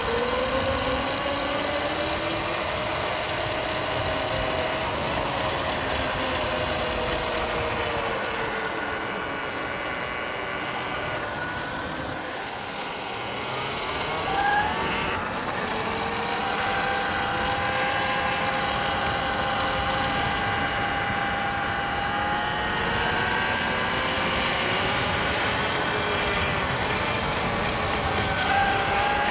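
Electric dirt bike motor whining, its pitch rising and falling as the bike speeds up and slows down, over steady wind and tyre noise.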